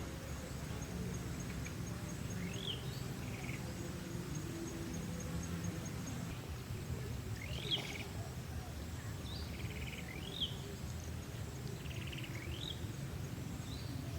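A bird calling: short upward-sweeping chirps, about five, each followed by a brief buzzy note, spaced a couple of seconds apart, over a steady low outdoor rumble and a faint fast high-pitched ticking like an insect.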